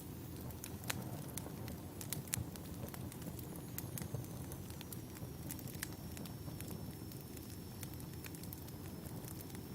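Wood fire burning, with a steady low rumble and frequent sharp crackles and pops of burning logs scattered irregularly throughout.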